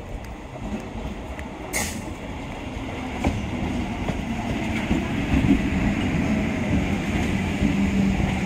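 Electric multiple unit suburban train pulling into a platform, a low rumble of wheels and traction motors growing louder as the cars roll past, with a few sharp clacks. A brief sharp burst of noise comes about two seconds in.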